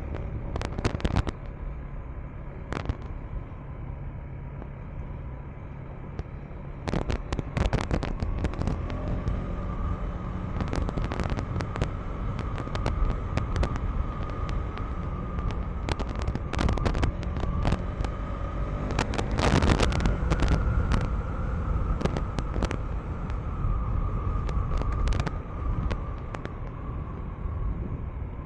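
KTM 390 Enduro R's single-cylinder engine running steadily on a rough, sandy dirt road, with many sharp clicks and knocks from the ride scattered through it. The knocks are heaviest about seven seconds in and again around twenty seconds.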